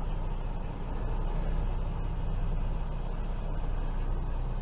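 Semi truck's diesel engine running at a low, steady idle while the tractor-trailer backs slowly.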